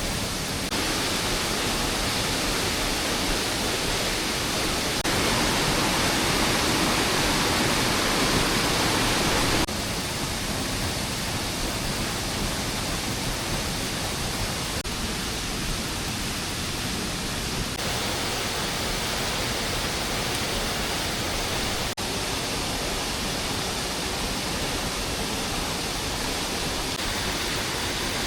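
Steady rain, a dense even hiss that shifts abruptly in loudness and tone several times. It is loudest between about five and ten seconds in.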